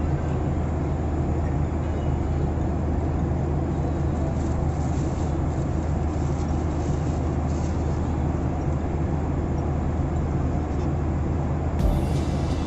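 Steady low drone of an airliner's cabin in flight: engine and airflow noise heard from inside.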